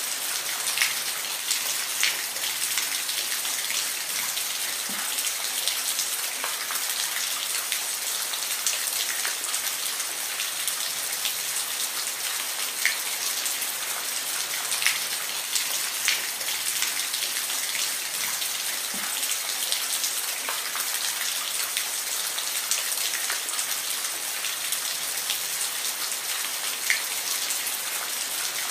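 Steady rain, an even hiss of falling water with individual drops ticking sharply on a surface every second or so.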